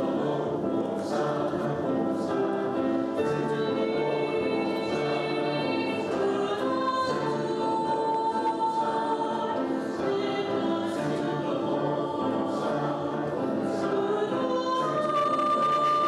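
A choir singing a sacred piece in sustained, held notes over a steady low accompaniment.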